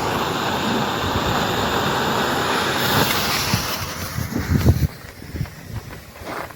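A lit firework burning with a steady rushing hiss for about five seconds, then dying away, with a few low thumps near the end.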